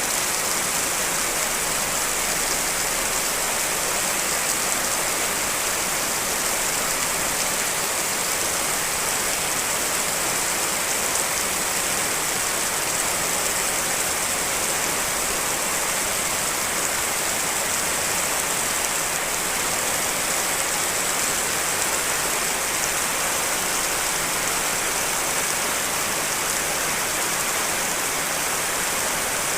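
Steady rain: several real rain recordings layered into one even, unbroken hiss of dense patter, with no breaks or single loud drops.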